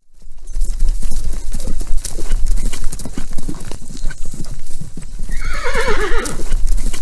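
Horse hooves clip-clopping in a quick, irregular patter over a low rumble. About five and a half seconds in, a horse whinnies once, a wavering call that falls in pitch.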